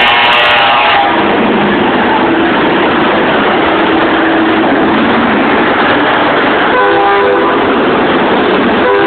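Parade trucks sounding loud air horns in several separate blasts, one ending about a second in, more around the middle and later, and another starting near the end, over continuous engine and traffic noise.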